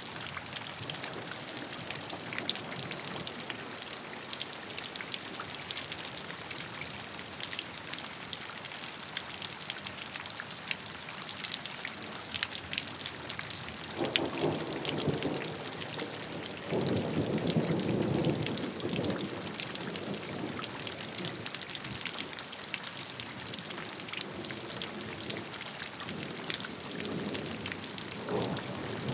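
Steady rain with many individual drops ticking. Low rumbles of thunder swell up about halfway through and again near the end.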